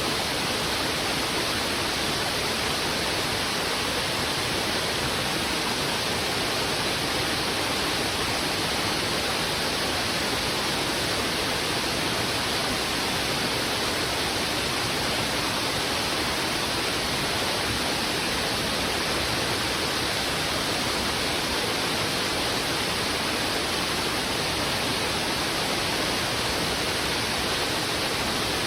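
Heavy river water rushing steadily: a dense, even hiss that never changes in level.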